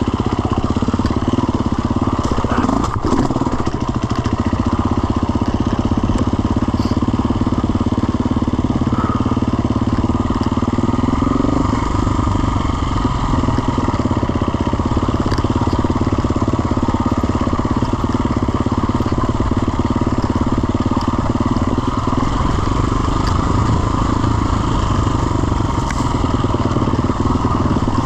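Off-road motorcycle engine running steadily while riding, its note swelling briefly about eleven seconds in.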